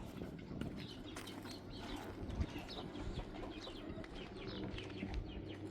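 Birds chirping: many short calls scattered throughout, over a low steady background rumble.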